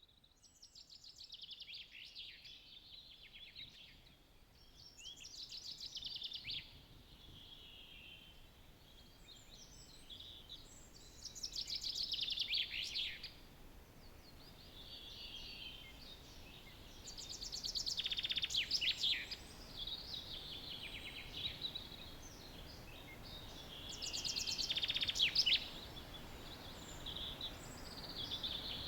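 Early-morning songbird chorus led by a common chaffinch singing its short, falling song phrase over and over, about every six seconds, each ending in a flourish. Quieter song from other birds carries on between the phrases.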